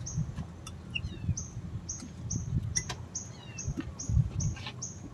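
A bird repeating a short, high note about twice a second, over a low rumble, with a couple of sharp clicks.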